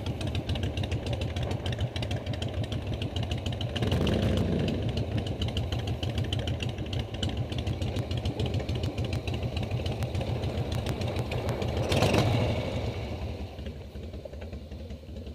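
Harley-Davidson Shovelhead V-twin motorcycle engine idling with a steady low beat, revved briefly twice, about four seconds in and again about twelve seconds in. Near the end it settles to a quieter idle.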